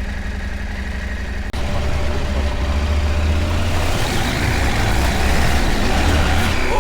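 Parallel-twin adventure motorcycle engine running at low road speed. About a second and a half in the sound cuts and jumps louder, and a rushing noise builds over the second half.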